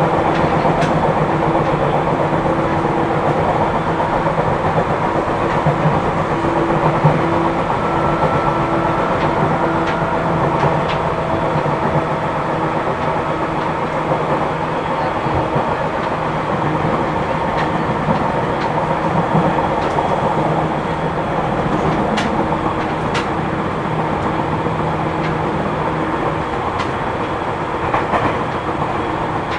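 Seibu New 2000 series electric commuter train running at speed, heard from inside the car: a steady rumble of wheels on rail with a low hum and a few sharp rail-joint clicks. The car's wheels have flat spots, giving a flat-wheel noise.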